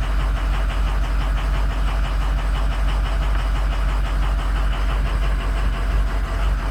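Ford 6.0 Powerstroke V8 turbodiesel idling steadily with an even, rhythmic clatter. It is running for a cylinder contribution test, which the owner's test points to bad injectors in cylinders 5, 2 and 7.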